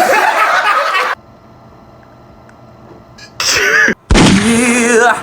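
A person's voice making nonsense noises instead of words: a harsh, raspy noise for about a second, a quiet gap, then a short breathy noise and a wavering, warbling cry that rises in pitch near the end.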